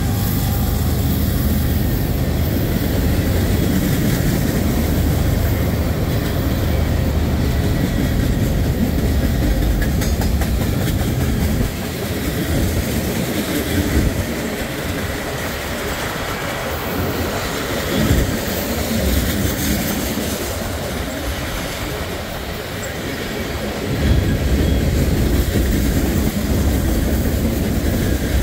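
CSX freight train rolling past, its cars' wheels rumbling and clattering over the rails in a continuous noise. The rumble eases for a while in the middle, with a few sharp knocks, then swells again near the end.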